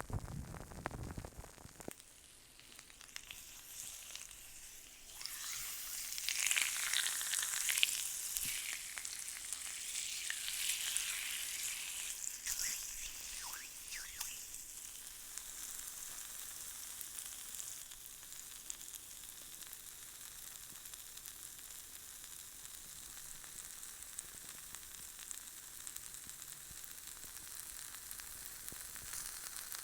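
Close-miked ASMR rubbing sounds: a crisp, crackling rustle. It swells for several seconds a little way in, then settles into a softer steady crackle.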